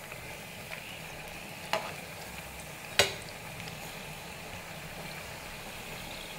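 Ribbon pakoda strips sizzling steadily in hot groundnut oil on low heat as they are turned over with a perforated steel spatula. The spatula clicks sharply against the pan twice, a little under two seconds in and again about a second later, the second click louder.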